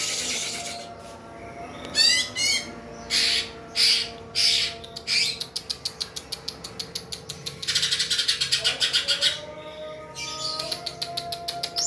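Green leafbird (cucak ijo) in full song: quick whistled and chattering phrases and fast trills, with harsh, raspy passages in the middle and near the end.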